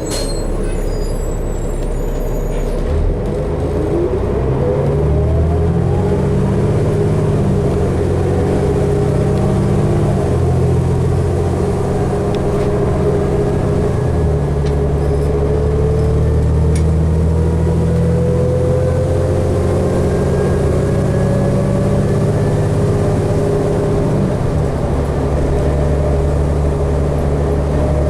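Articulated diesel bus (a 2012 New Flyer D60LFR) heard from inside, pulling away from a stop. About three seconds in the engine builds up, with a rising sweep as the transmission shifts. A steady drivetrain whine then climbs slowly in pitch as the bus gains speed.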